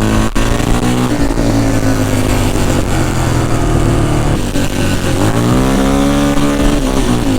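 ATV (quad) engine running under throttle. Its pitch holds steady, drops about four and a half seconds in, then rises again as it is revved up and held before easing off near the end.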